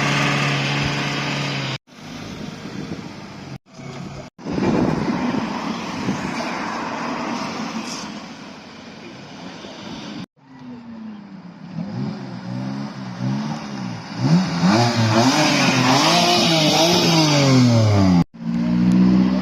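Car engines at a car meet in several short cut-together clips: first a steady engine note, then one engine revved up and down again and again, its pitch climbing and falling, loudest near the end.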